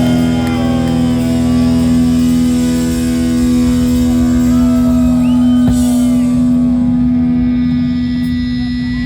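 Live rock band on stage, amplified through the PA: one steady, loud tone held throughout, the way a guitar chord rings out and sustains.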